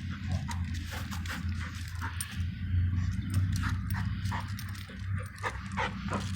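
A dog's small sounds close by, over a steady low rumble with many light clicks and ticks scattered throughout.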